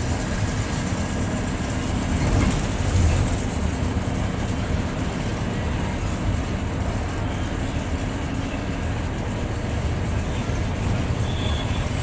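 Bus engine and road noise heard from inside the driver's cabin while under way: a steady low drone with rumble, swelling louder for about a second roughly two to three seconds in.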